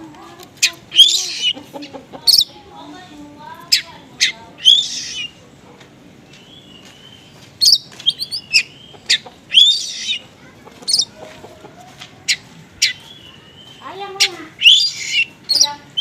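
Oriental magpie-robin song: sharp high chirps, whistled notes and harsh rasping calls in quick bursts with short pauses, mixed with mimicked calls of small birds.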